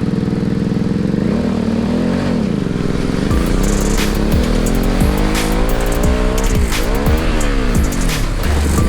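Crosskart engine idling steadily, then from about a second and a half in revving up and down again and again, its pitch rising and falling in repeated swells.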